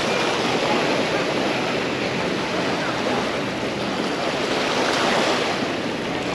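Surf washing onto a sandy beach, a steady rush of breaking waves, with indistinct voices of people on the beach underneath.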